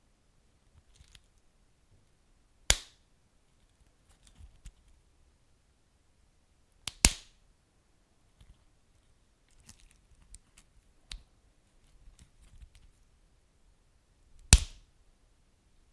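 Wood fire crackling: three loud, sharp pops about three, seven and fourteen and a half seconds in, with faint scattered crackles between.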